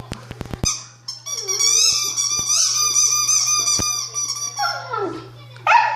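A nine-week-old puppy at play with its squeaky toy. A few sharp clicks are followed by a long, wavering, high-pitched squeal lasting about three seconds, then a short falling whine and a sharp yip near the end.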